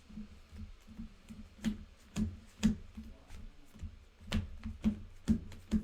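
Sharp taps and clicks, about seven at irregular half-second gaps, of sleeved playing cards being handled and tapped on a tabletop while a deck is shuffled, with a low pulsing room hum beneath.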